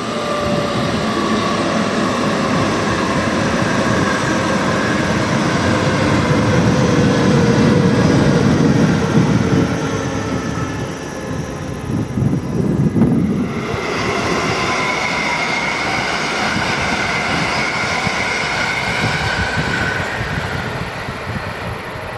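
A train passing along the line: a long, steady rush of running noise with whining tones that slowly fall in pitch. It is loudest about eight or nine seconds in, and a new set of higher whining tones takes over about fourteen seconds in.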